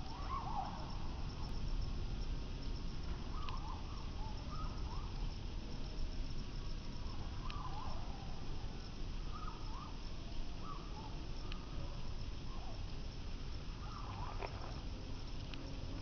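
Outdoor ambience: short bird chirps every second or two over a steady low rumble.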